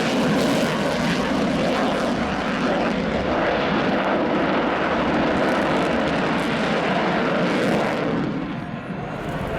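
Aircraft engine noise from a fixed-wing aircraft flying at an airshow. It is a loud, steady rush that eases briefly near the end.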